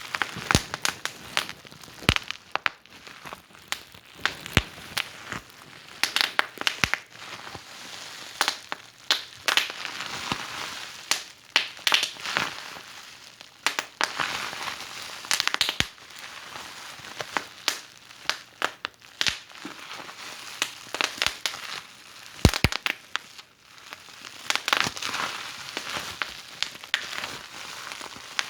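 Wood fire burning in a fireplace and crackling, with irregular sharp pops and snaps over a soft hiss that swells and fades every few seconds.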